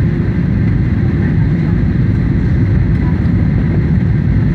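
Boeing 737 airliner noise: a steady, loud low rumble of engines and airflow, unchanging throughout, with a faint steady whine above it.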